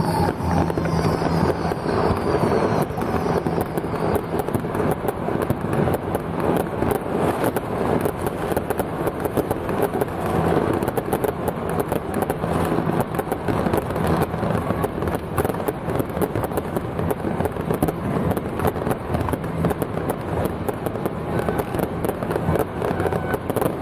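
Firecrackers crackling densely and without a break, with an on-and-off low hum beneath.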